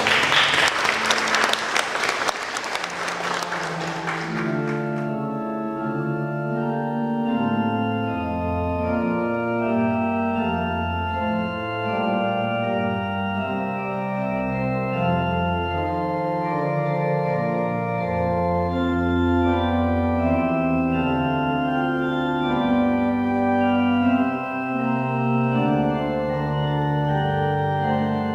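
Clapping for the first few seconds, then organ music playing slow, sustained chords.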